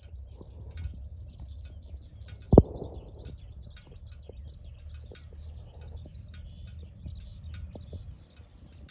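Small birds chirping and twittering over a steady low rumble, with one loud thump about two and a half seconds in.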